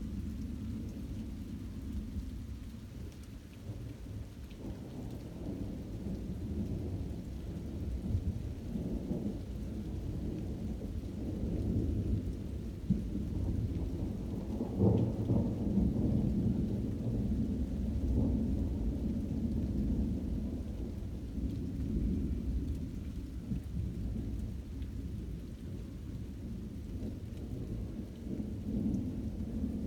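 Thunder rolling in a continuous low rumble that swells and fades, loudest about halfway through.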